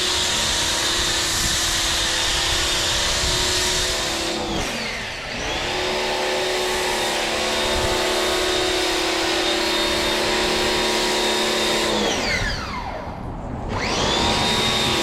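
Electric pressure washer's motor and pump running with a steady whine, spinning down twice as the trigger is let go and winding back up to speed when it is squeezed again.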